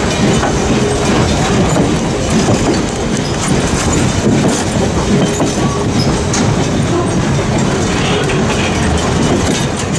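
Passenger coaches of a train rolling past close by, their steel wheels clacking over the rail joints in a loud, steady run of clatter.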